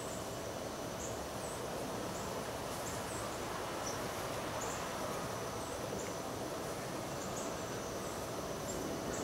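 Outdoor ambience: a steady background hum with short, high chirps of small birds repeating irregularly, about once a second.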